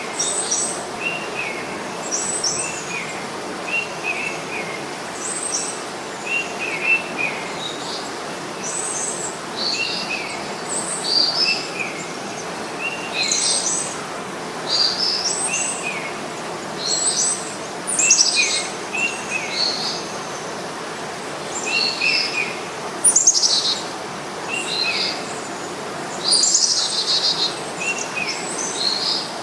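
Birds chirping in trees: many short, quick chirps repeating every second or so, some high and some lower, over a steady background noise.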